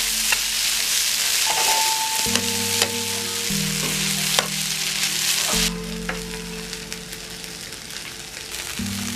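Chopped roti and vegetables sizzling in a frying pan while a perforated metal skimmer stirs and tosses them, with a few sharp clicks of metal on the pan. The sizzle drops noticeably a little past halfway. Soft background music with held notes plays underneath.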